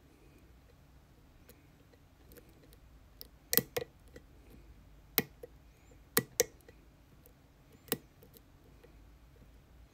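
Sharp metallic clicks of a lock pick working inside a challenge lock: six or so separate clicks between about three and a half and eight seconds in, over faint light ticking.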